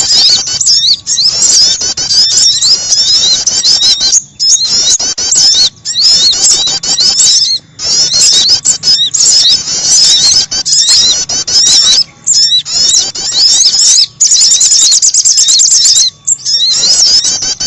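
Bird-trapping lure recording of small songbirds, sogon and prenjak: a fast, dense stream of high, squeaky chirps and slurred notes, broken by short pauses every couple of seconds.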